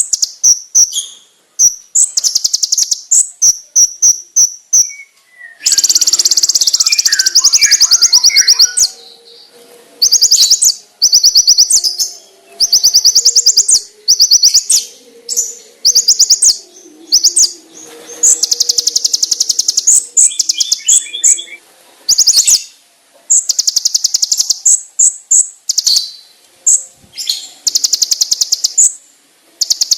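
Kolibri ninja (konin) sunbird singing a loud, high-pitched song of rapid trills: fast runs of repeated sharp notes in bursts a second or two long, broken by short pauses.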